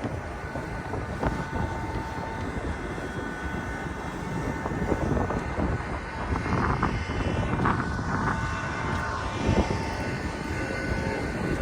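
Strong wind buffeting the microphone in gusts, a heavy rumbling noise, with faint steady tones above it.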